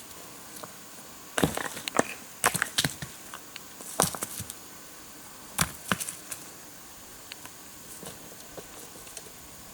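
A hand tool striking and splitting wood, in a few bursts of sharp knocks and splintering cracks over the first six seconds, then a lull.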